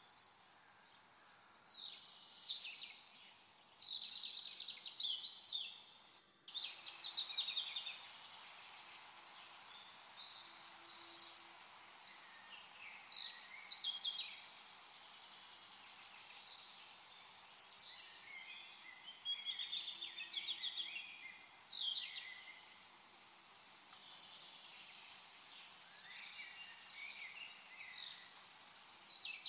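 Birds singing in repeated bursts of quick, falling chirps over a steady background hiss. The hiss cuts out for a moment about six seconds in.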